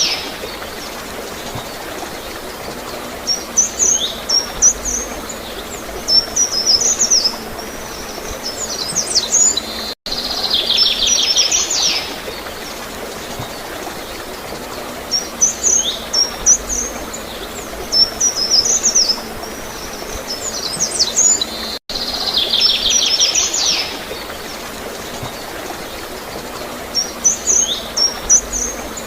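Songbirds singing and chirping over a steady wash of flowing water. Each phrase opens with a rapid trill followed by scattered high chirps, and the same stretch of about 12 seconds repeats as a loop, with a brief dropout at each join.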